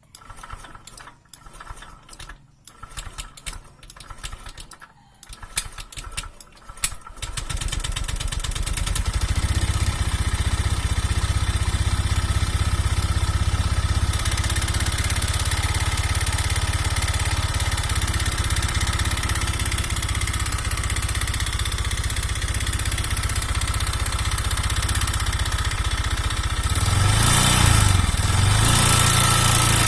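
Honda Vario 125 fuel-injected scooter's single-cylinder engine cranked on the starter in several short bursts, then catching and running steadily, speeding up about 27 seconds in. The engine runs rough and is hard to start, which the owner puts down to a piston worn loose in the cylinder and weak compression.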